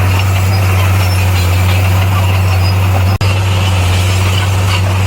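Komatsu bulldozer's diesel engine running with a steady low drone, cutting out for an instant just after three seconds in.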